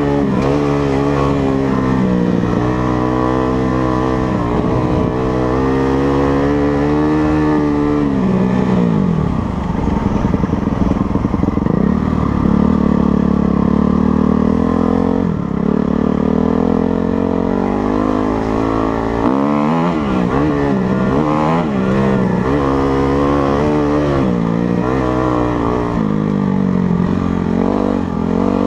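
Motocross bike engine revving hard, its pitch rising and falling over and over as the throttle opens and closes.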